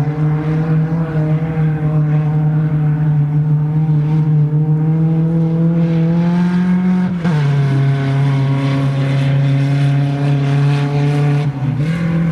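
Dirt-track race car engine running hard at steady revs, its note climbing slowly, then dropping sharply about seven seconds in as the throttle comes off. It holds the lower note after that, with a brief dip near the end.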